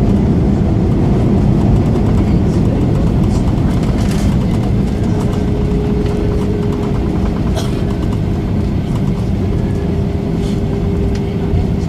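Airbus A320 airliner cabin noise: a loud, steady low rumble of engines and airflow with light rattles and clicks. A thin steady tone joins about halfway through.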